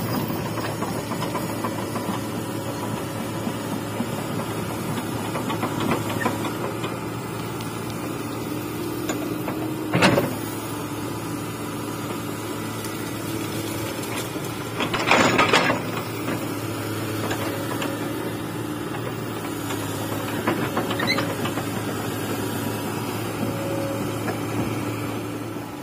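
Hydraulic excavator's diesel engine running steadily as it digs, with one sharp knock about ten seconds in and a louder rattle lasting about a second some five seconds later.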